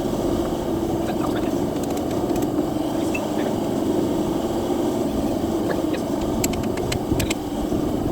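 Steady roar of a blacksmith's forge running, with a few light clicks of metal handling about six and a half seconds in.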